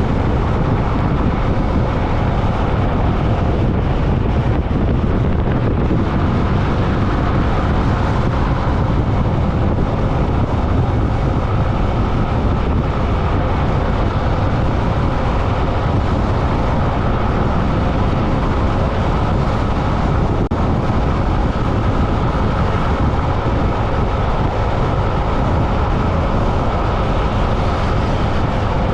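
Steady rush of wind and road noise heard by a camera riding along a road, loud and unbroken, heaviest in the low rumble.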